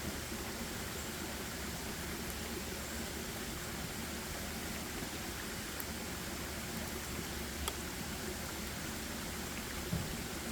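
Steady, even rushing noise of outdoor forest ambience, with two faint soft clicks, one about three-quarters of the way in and one just before the end.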